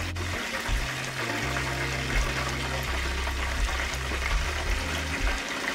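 Hot oil sizzling steadily in a skillet around frying hot water cornbread batter cakes.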